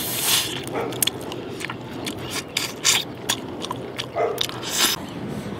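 A person gnawing and chewing a spicy chicken foot close to the mouth, with many quick small crunches and wet clicks. There are two longer hissing sounds, one at the start and one near the end.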